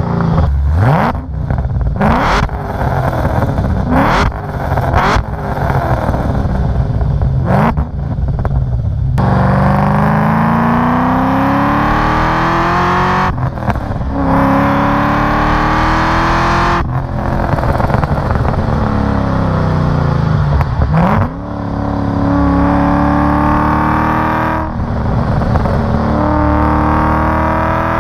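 Cadillac CTS-V's supercharged V8 under hard throttle, exhaust loud. It revs in short, choppy bursts for the first several seconds, then pulls in long runs, each climbing in pitch and broken by a gear change.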